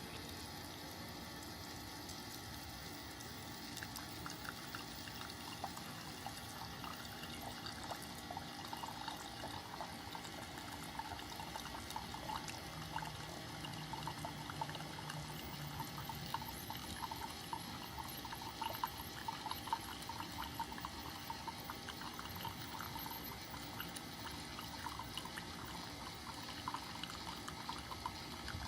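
Keurig K-Mini single-serve coffee maker heating its water before the brew: a steady, fairly quiet water noise with irregular small crackles and ticks.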